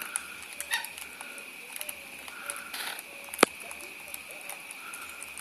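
Small backyard birds giving a few short, soft chirps over a steady high-pitched background hum, with scattered light ticks and one sharp click about three and a half seconds in.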